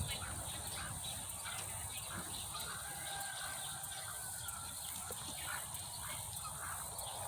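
Domestic fowl making many short calls, with one longer drawn-out call in the middle, over a steady high hiss.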